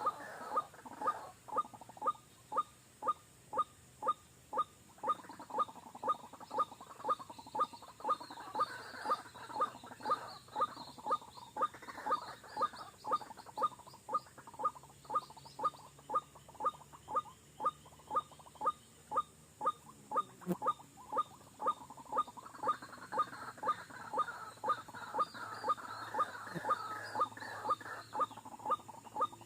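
White-breasted waterhen calls: one short, sharp note repeated steadily, a little over two a second, with bursts of busier chattering calls over it at times.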